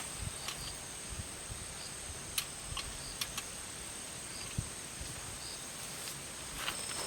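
Outdoor ambience dominated by a steady, high-pitched insect chirring, with a few faint short chirps and scattered sharp clicks.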